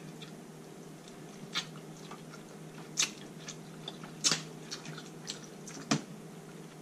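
Close-miked chewing of sauced king crab meat, with four sharp wet mouth smacks at about one-and-a-half-second intervals and a few softer ones between.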